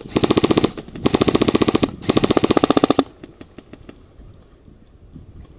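Airsoft rifle firing on full auto in three loud bursts, each under a second long, at about twenty shots a second; after about three seconds only faint, scattered clicks remain.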